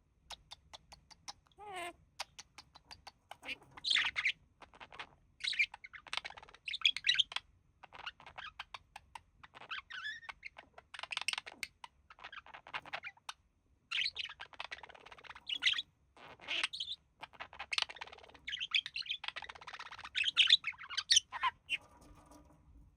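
Budgerigar warbling and chattering: fast runs of chirps, clicks and short squawks in bursts with brief gaps, stopping shortly before the end.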